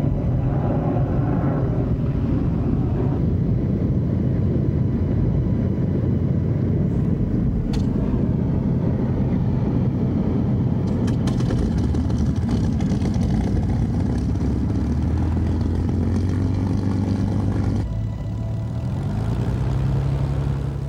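Piston aircraft engine running steadily. The sound changes abruptly about eighteen seconds in, and the engine note then rises in pitch toward the end.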